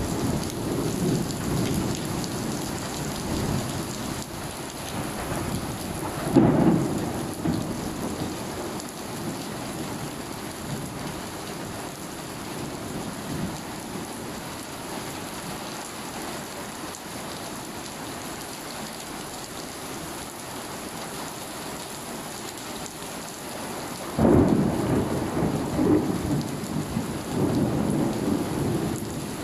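Steady rain with rolling thunder. A rumble comes near the start and another about six seconds in, then a longer, louder roll begins about 24 seconds in.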